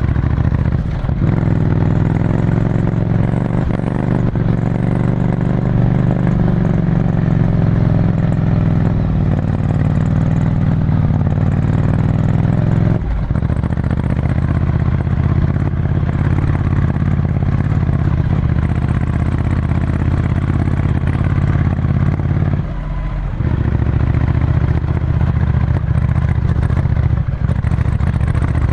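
Ducati Scrambler Desert Sled's air-cooled L-twin running through a full Termignoni exhaust under way, a steady loud engine note that briefly drops off three times: about a second in, about halfway through, and again some seconds before the end.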